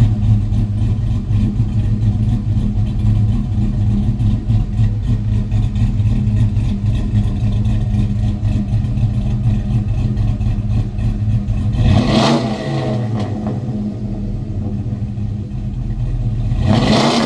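V8 of a 2006 Chevrolet Silverado, fitted with a Howard Rattler camshaft and true dual exhaust through Flowmaster 40 series mufflers, idling with a regular choppy pulse. The throttle is blipped briefly about twelve seconds in and again near the end.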